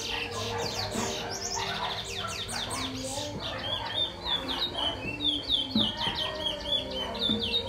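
Pet bird chirping: first a quick series of falling chirps, then from about halfway a fast, even string of short chirps, several a second.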